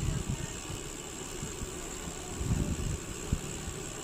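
Wind buffeting the microphone in irregular low gusts over a steady hiss, with a short thump about three seconds in.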